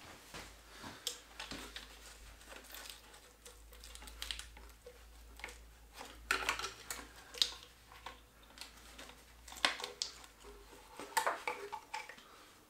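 Hand tools clinking and scraping on metal while hoses are worked off a diesel engine's heat exchanger: a scattered series of sharp clicks and rattles, busiest about halfway through and again near the end.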